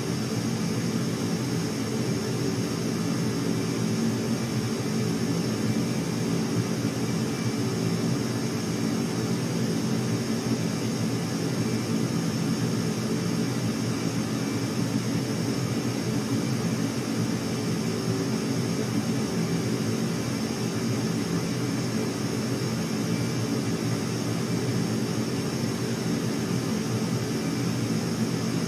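Aircraft engines running steadily, with a low hum and a steady high whine that do not rise or fall.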